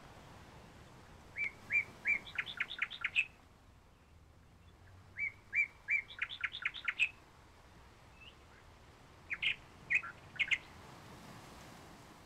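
A songbird singing three phrases, each a few evenly spaced high notes running into a quicker trill, the first two alike and the third shorter.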